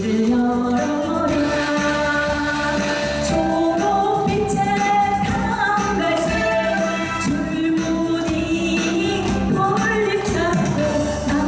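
A woman singing a Korean trot song live over a backing track through a PA system, holding long notes against a full band accompaniment.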